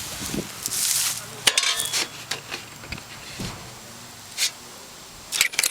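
Rustling with sharp clicks and clinks of small hard objects being handled, in two clusters: about a second and a half in and again near the end.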